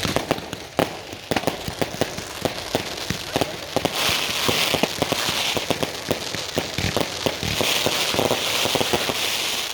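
Fireworks going off: a rapid, irregular run of bangs and pops, joined from about four seconds in by a steady crackling hiss.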